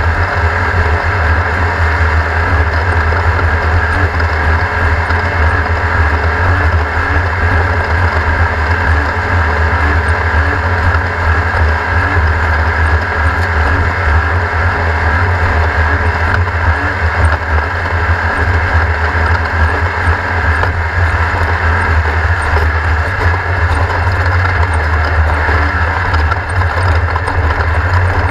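Race car engine running steadily with a strong low rumble and no clear revving.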